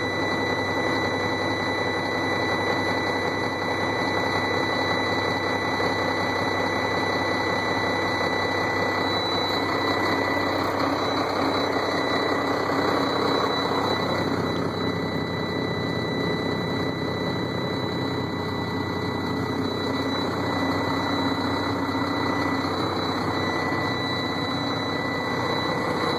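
Sterling roll-off truck's diesel engine running steadily just after a cold start in freezing weather, its note changing about fourteen seconds in. A steady high-pitched dash warning buzzer sounds over the engine.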